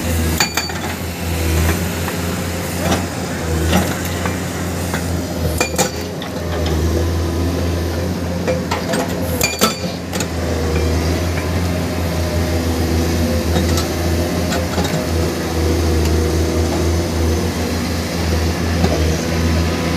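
Diesel engine of a heavy construction machine running steadily at a low hum, with a few sharp metallic clanks now and then.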